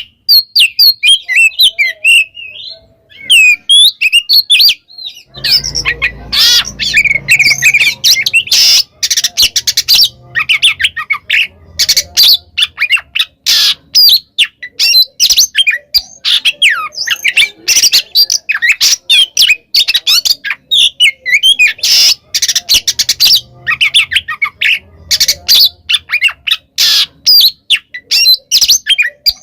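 Oriental magpie-robin (kacer) singing loudly and without a break: a rapid run of clear, sliding whistled notes mixed with harsh, rasping chatter. This is the full song a kacer uses to call out a rival.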